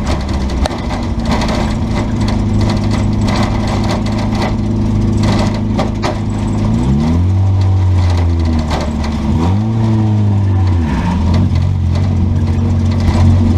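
Car engines running loud and steady, with the engine pitch rising and falling a few times in the second half as a car speeds up and backs off.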